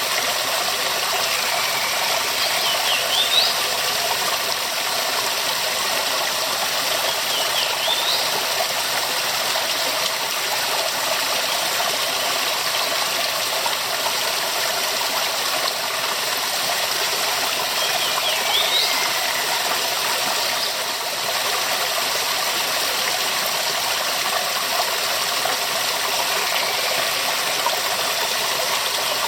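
Waterfall rushing steadily, a dense even hiss of falling water. A few faint high chirps sound over it, about four times.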